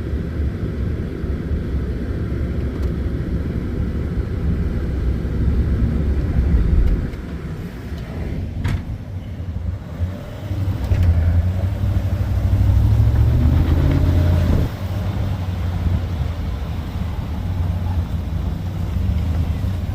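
Truck engine running under load in four-wheel-drive high, working snow; it swells and eases off twice, rising in pitch about thirteen seconds in before dropping back. A sharp click sounds about nine seconds in.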